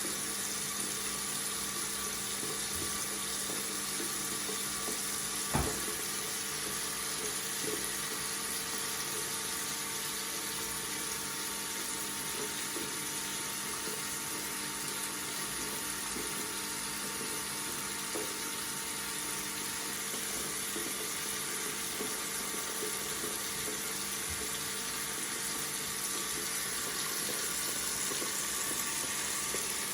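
Tap water running steadily from a faucet into a sink, with a single short click about five seconds in.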